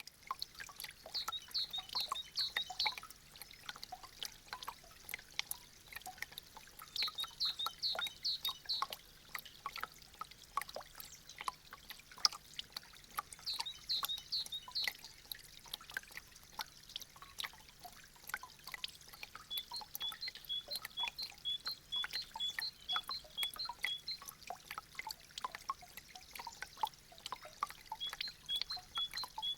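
Meltwater from melting icicles dripping and trickling, with many irregular drips and splashes. High chirping calls come in a few short clusters, and later in quick runs of evenly spaced notes.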